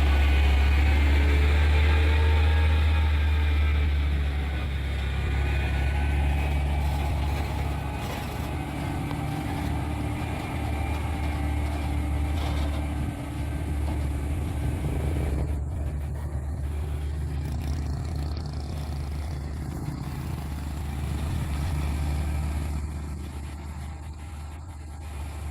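Heavy truck's diesel engine pulling slowly up a steep grade under a heavy load: a steady low drone that gradually grows fainter.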